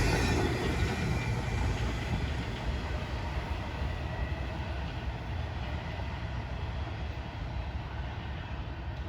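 Freight train rolling on the rails, a steady rumble and wheel noise that fades gradually as it moves away.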